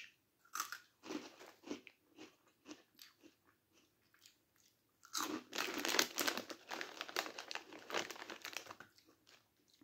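Crunching bites and chewing of a Walkers Wotsits Crunchy Flamin' Hot corn snack: a few separate crunches over the first three seconds, then a dense run of crunching from about five seconds in.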